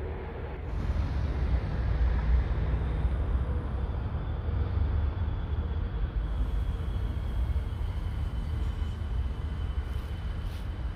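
Electric passenger trains moving through a rail yard, heard as a steady low rumble. A faint high whine comes in about four seconds in.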